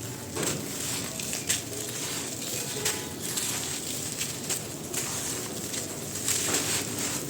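Dry black grainy sand shapes crumbling and crunching: a dense, continuous crackle with sharper snaps now and then.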